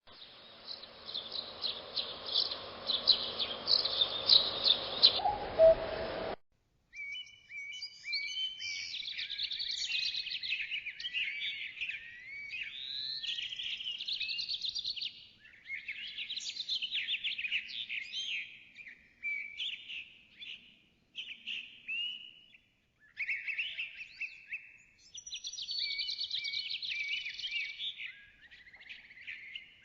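A songbird singing a rapid, varied song of chirps, trills and slurred notes, in phrases a few seconds long with short pauses between them. The first six seconds are a noisier recording of similar chirping that cuts off abruptly, followed by a brief silence.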